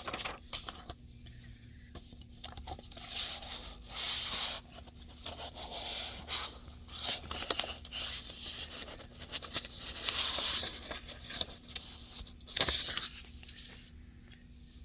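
Paper rustling and scraping in irregular swishes, with a few sharp clicks: a picture book's pages being handled and turned.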